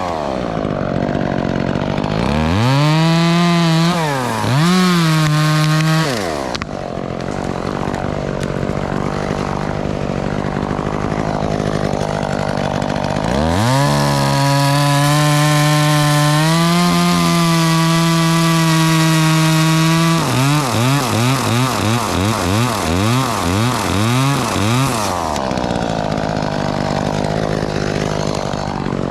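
Chainsaw revving up and cutting into pine, dropping back to idle between cuts; for a few seconds late on the revs pulse up and down about twice a second.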